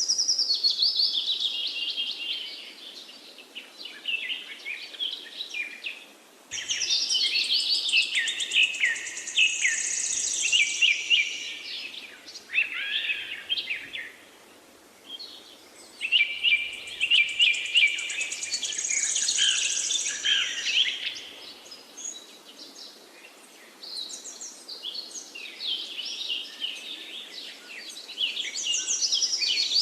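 Several forest songbirds singing and chirping over each other in long bouts of quick, high warbling phrases, with short lulls between bouts.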